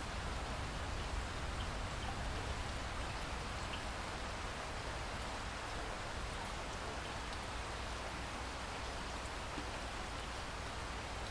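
Steady rain falling, an even hiss with a low rumble beneath it and a few faint scattered drop ticks.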